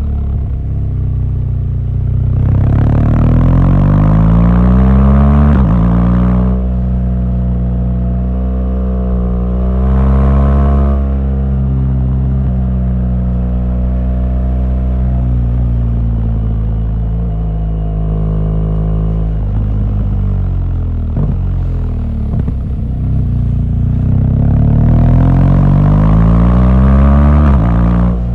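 BMW R1200GS flat-twin boxer engine under way on the road, accelerating with its pitch climbing to an upshift about five seconds in, then running at a steady pace. Near the end it pulls up through the revs again to another gear change.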